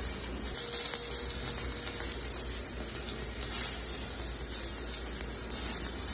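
Electric arc welding: a steady, dense crackle and hiss from the welding arc.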